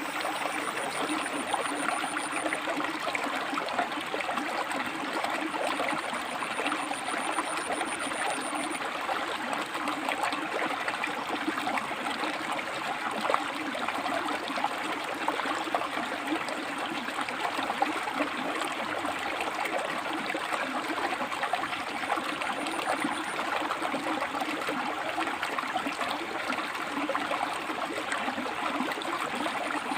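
River water rushing and splashing between rocks, a steady, even flow with small irregular splashes.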